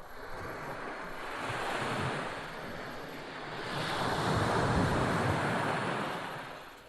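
Barents Sea surf: waves rushing in and breaking, swelling twice, the second surge louder.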